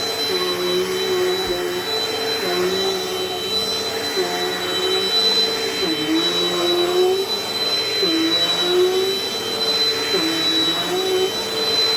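Dirt Devil Dynamite Plus vacuum cleaner running steadily with a high motor whine. Its lower hum dips briefly in pitch and recovers every one and a half to two seconds.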